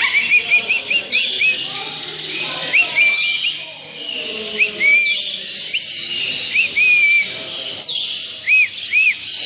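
Many caged birds chirping and whistling at once: a dense, continuous chorus of short high chirps and whistled notes overlapping one another.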